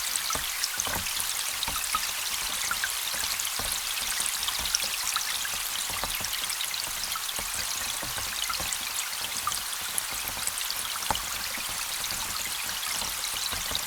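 Rain falling on a lake, heard underwater through a hydrophone: a steady dense high-pitched hiss made of countless tiny pops and ticks, with little low sound. The pops come from small air bubbles made as the drops hit the water.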